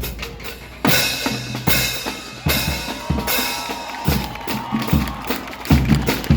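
School marching band drum line playing: bass drums and snare drums striking in a steady pattern, with bright crashing accents about a second apart early on and a faint melodic line in the middle.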